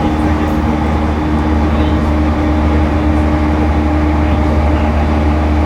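Refurbished E231-1000 series electric train heard from inside a passenger car while running at steady speed: an even low rumble of wheels on rail with a constant hum of several held tones.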